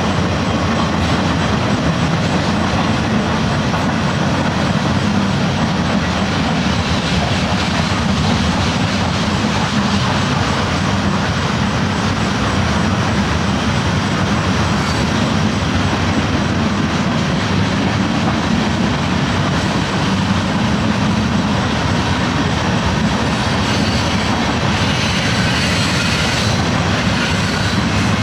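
Train rolling steadily along the tracks, a continuous rumble of wheels on rail.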